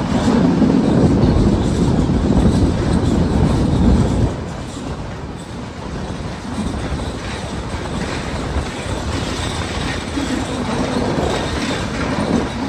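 Train running along the tracks, with a loud low rumble for about the first four seconds that drops off suddenly, then a steadier, quieter running noise.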